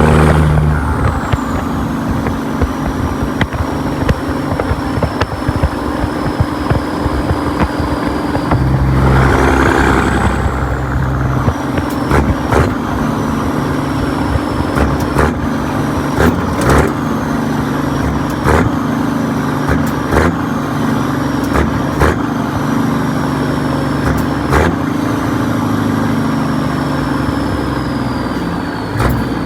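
Caterpillar 6NZ (3406E) inline-six diesel in a 1998 Peterbilt truck pulling under way, with a high turbo whistle that slowly falls in pitch. About nine seconds in there is a brief rush and the whistle climbs again, as with a gear change. After that come short sharp clicks every second or two.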